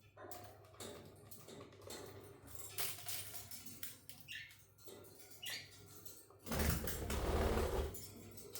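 Pet budgies: scattered scratching and rustling with a couple of short rising chirps, then a loud rustling flurry lasting about a second and a half near the end.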